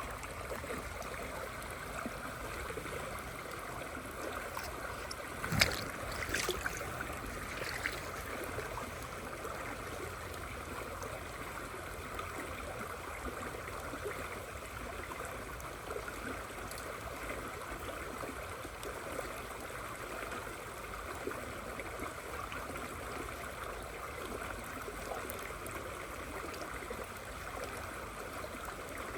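River water flowing steadily with rain falling, an even rushing wash. About five and a half seconds in there is one sharp knock, followed by a few fainter clicks over the next couple of seconds.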